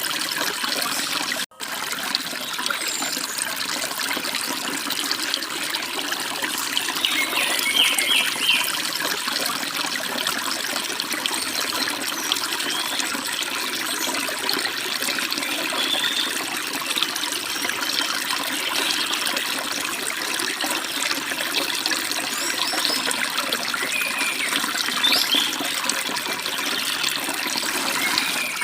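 A forest stream runs steadily, babbling over rocks and small falls. Birds give a few short chirps over it, around 8, 16 and 25 seconds in. The whole sound drops out for an instant about a second and a half in.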